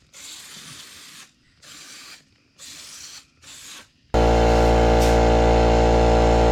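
Aerosol chain lube sprayed onto a motorcycle chain in four short hissing bursts. About four seconds in, a much louder, steady mechanical buzz starts up: a tire inflator or air compressor running to put air in the tires.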